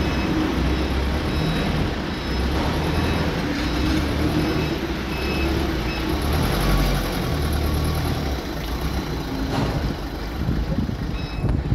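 Tractor engine running with a steady, heavy low rumble.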